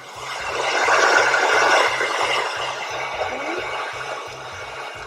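Wazor hair dryer running: a steady rush of blowing air that swells over the first second, then slowly fades.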